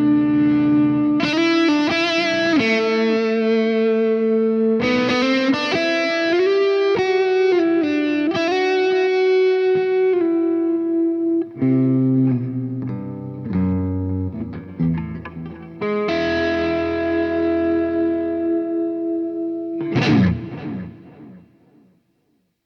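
Electric guitar played through the Joyo R-20 King of Kings, a Bluesbreaker-style dual overdrive pedal: overdriven sustained chords and single-note lines. About twenty seconds in, a last sharp strum rings out and fades away.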